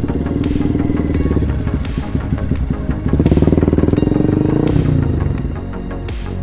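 Honda Grom's single-cylinder engine revving up and easing off twice, loudest on the second rise about three seconds in, then dropping back. Background music with a steady beat plays under it.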